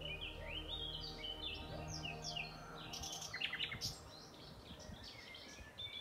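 Songbirds singing, with many quick sweeping, chirping phrases throughout, over sustained music tones that fade out about halfway through.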